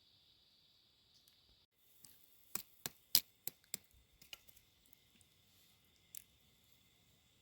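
A quick run of about seven sharp clicks or snaps, roughly three a second, then one more a couple of seconds later, over a steady high-pitched hiss.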